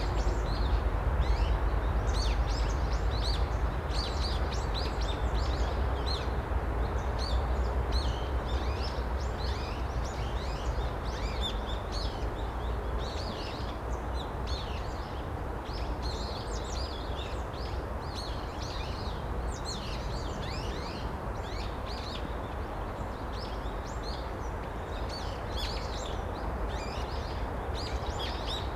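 Many small songbirds chirping and twittering, short high calls overlapping one after another, over a steady low rumble of background noise.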